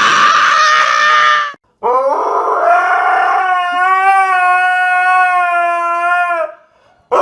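A husky howling: one long howl that rises at the start and then holds steady for about four and a half seconds. Before it, a loud, rough noise lasts about a second and a half.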